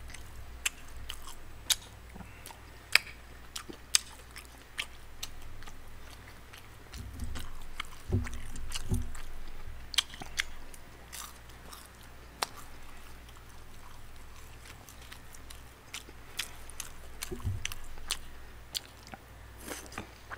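Close-miked eating: chewing and biting tteokbokki rice cakes, with irregular sharp wet mouth clicks and chopstick taps.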